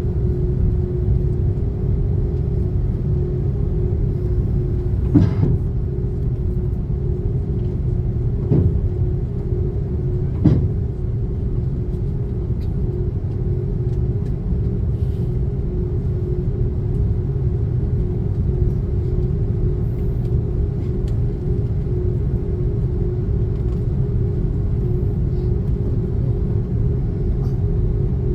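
Steady rumble and hum inside the cabin of an Airbus A330-300 airliner, with three brief knocks in the first half.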